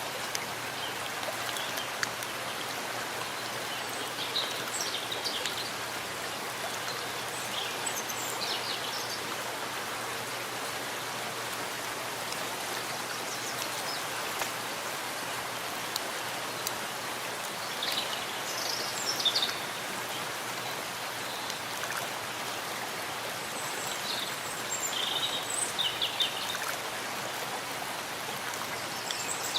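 Steady rain falling in a forest, an even hiss of drops on leaves and ground. A few short high chirps come through it now and then.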